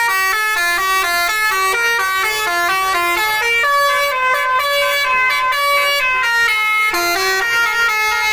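Bus multi-tone 'telolet' air horn playing a loud, fast melody of short stepped notes, about three or four notes a second, without a break.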